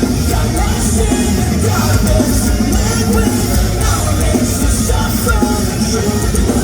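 A rock band playing live and loud, with heavy, dense band sound and frequent cymbal hits, and a vocal yelling over it.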